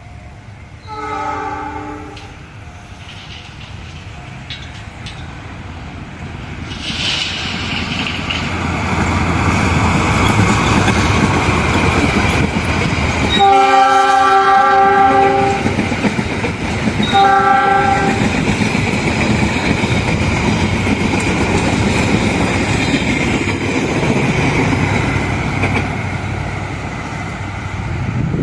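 Train approaching and passing with loud rumble and wheel clatter that builds from about seven seconds in. Its multi-tone horn sounds three times: a short blast about a second in, a long blast of about two seconds near the middle, and a short blast soon after. A thin high whine runs through the last few seconds.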